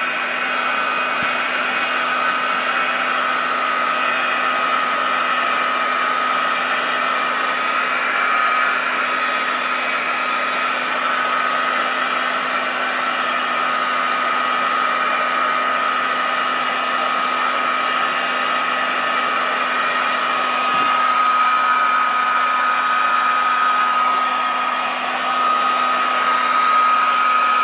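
Electric heat gun running steadily: its fan blowing with a constant high whine and a low hum, heating a warped plastic to soften and flatten it.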